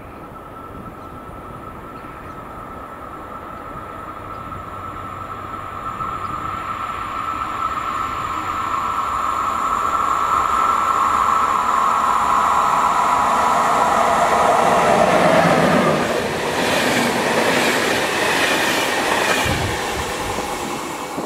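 HŽ series 1142 electric locomotive and its passenger coaches approaching and passing at speed. A high steady whine grows louder and drops in pitch as the locomotive goes by. The coaches' wheels then clatter over the rails.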